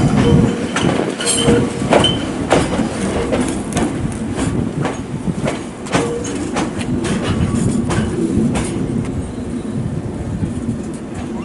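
Fuji Kyuko line electric train rolling past, its wheels clacking over rail joints in many irregular clicks, with short squeals from the wheels on the rails.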